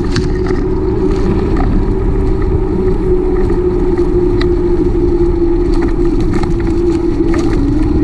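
Wind noise on the microphone and road rumble from a bicycle being ridden, with a steady low drone and scattered small clicks and rattles.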